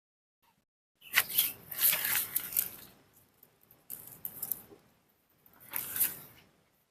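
Rustling and crackling of grass and leaves being handled, in three bursts. The first, starting about a second in, is the loudest.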